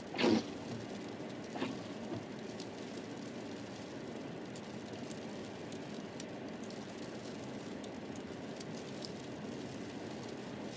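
Steady road and tyre noise heard inside a car's cabin while driving on a snowy road, with one short loud sound right at the start and faint scattered ticks after it.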